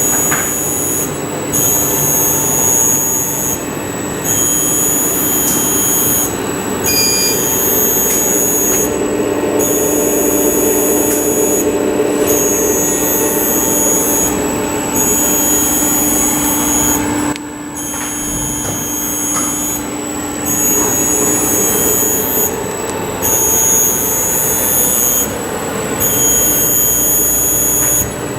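Yaskawa servo drive and servo motor running on a test bench: steady mechanical running noise under a high-pitched whine that cuts in and out about every two seconds, as the motor is cycled.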